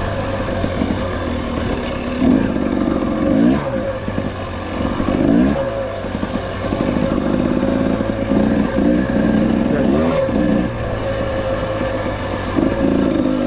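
300 two-stroke dirt bike engine running under a blipping throttle, its pitch rising and falling again and again every second or two over a steady drone.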